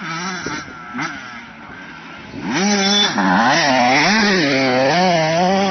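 Motocross bike engine, fainter at first, then loud and close from about two seconds in, its revs rising and falling again and again as the rider works the throttle around the track.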